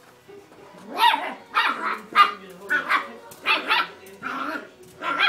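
Dog barking repeatedly: a quick run of about eight barks, roughly two a second, starting about a second in.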